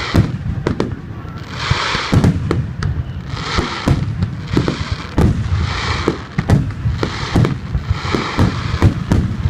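Aerial fireworks shells bursting in quick succession: many sharp bangs over a low rolling rumble, with a hissing crackle that swells about every two seconds.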